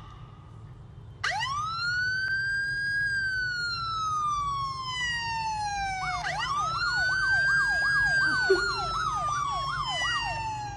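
Emergency vehicle siren wailing: the tone rises sharply about a second in, then falls slowly, and rises again about six seconds in. From there a second siren yelps over it in quick up-and-down sweeps, two to three a second.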